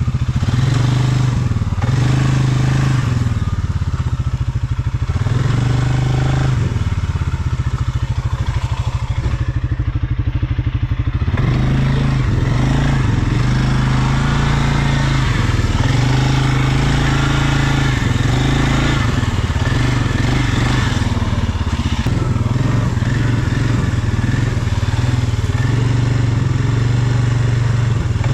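ATV engine running while riding. Its pitch drops as the throttle eases off for a few seconds near the middle, then picks back up.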